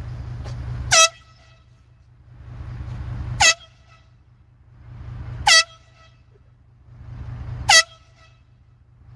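A man in a heavy sleep snoring. Each rasping, rattling inhale swells for about a second and ends in a short, sharp, high squeal that drops in pitch. Four snores come at an even pace of about two seconds apart.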